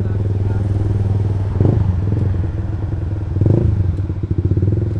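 Motorcycle with a Ronin Black Katana aftermarket exhaust running steadily while riding, with two brief louder swells about a second and a half and three and a half seconds in.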